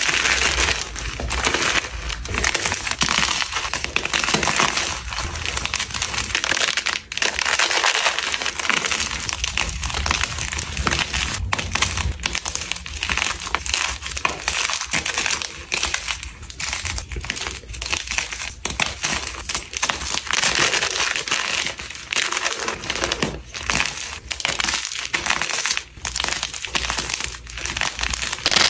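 Blocks of gym chalk being crushed and crumbled: a dense, continuous crunching made of many small crackles.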